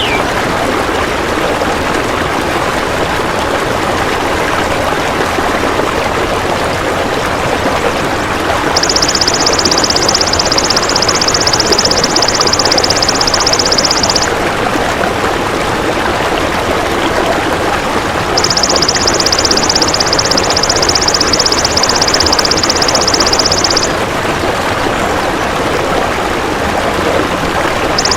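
Golden grasshopper (belalang emas) buzzing a rapid, high trill in three bursts of about five seconds each. Under it runs a steady rush of flowing water.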